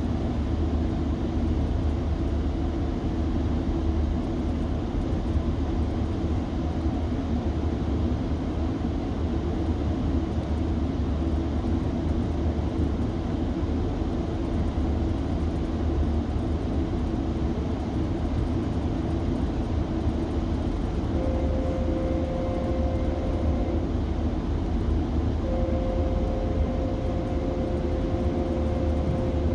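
Metrolink commuter train running, a steady low rumble. A held tone sounds twice near the end, the second time longer.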